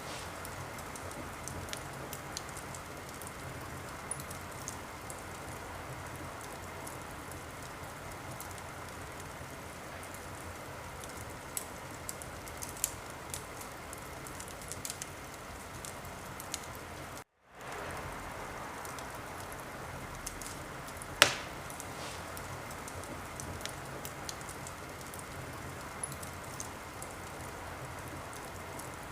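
Wood fire crackling in a fireplace: a steady hiss with scattered sharp pops and one louder crack about two-thirds of the way through. The sound cuts out completely for a fraction of a second a little past the middle.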